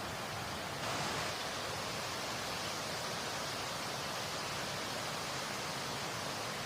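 Waterfall running: a steady rush of falling water, swelling slightly about a second in.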